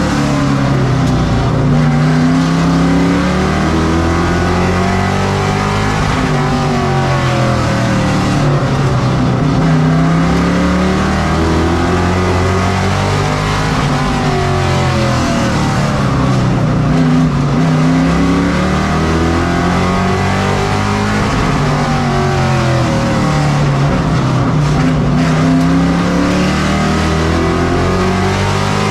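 Race truck V8 engine at racing speed, its pitch climbing and then falling away in a smooth swell that repeats about every seven to eight seconds: the truck accelerating down each straight and backing off into each turn as it laps the oval.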